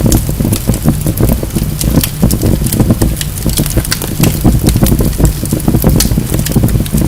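Wood fire in a fireplace crackling, with many sharp pops and snaps a few times a second over a steady low rumble of the flames.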